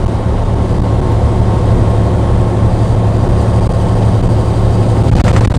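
Truck running down the road, heard inside the cab: a steady low engine drone with road noise. A brief clicking sound comes near the end.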